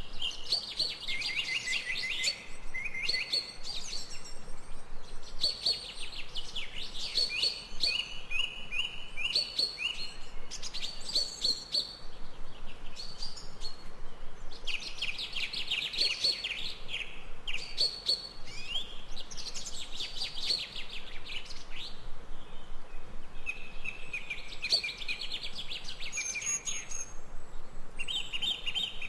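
Songbirds singing in a forest, phrase after phrase of rapid high chirps and trills, with short pauses between phrases.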